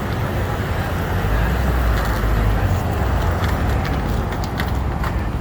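Steady highway traffic noise with a low rumble, vehicles running past on the road.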